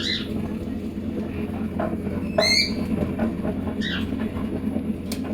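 Cockatiels giving short squawking calls, three in a row a second or two apart, over a steady low hum.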